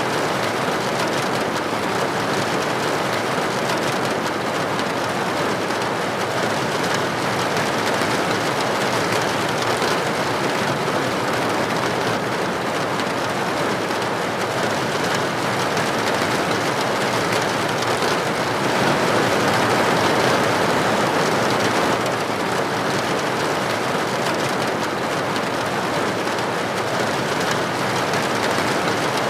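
Steady, dense rainfall pattering on a surface, an even hiss that swells slightly about two-thirds of the way through.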